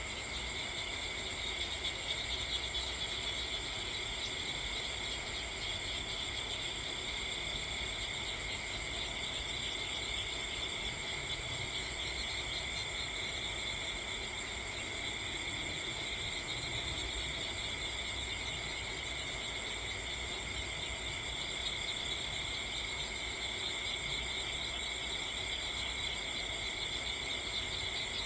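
A steady chorus of crickets trilling without a break, several high pitches held at once.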